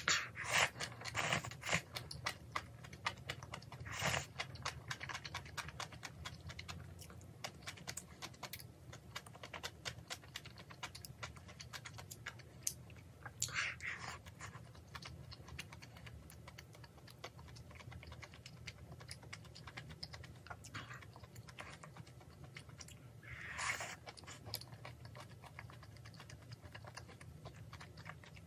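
Close-up eating sounds of a person chewing rice and kimchi stew, with many small mouth and chopstick clicks and a few louder bursts about a second in, around four seconds, around fourteen seconds and near twenty-four seconds.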